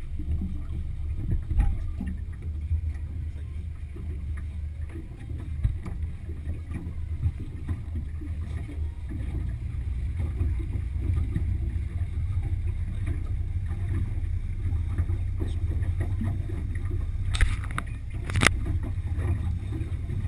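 Boat running under its Yamaha F60 four-stroke outboard: a steady low rumble of engine and water. Two sharp knocks about a second apart near the end.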